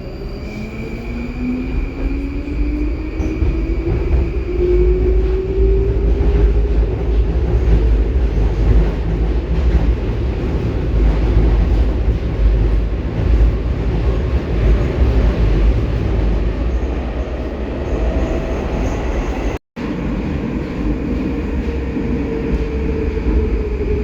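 Inside a 'Baltiets' metro train running through the tunnel: a heavy, steady rumble of wheels and car body, with the traction motor whine rising in pitch over the first several seconds as the train accelerates, then holding. The sound cuts out for an instant about 20 s in, and near the end the whine slowly sinks.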